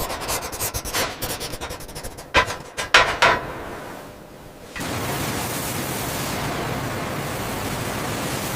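Industrial metalworking noise: a rapid run of sharp clicks and knocks with a few louder impacts, giving way after about five seconds to a steady hiss.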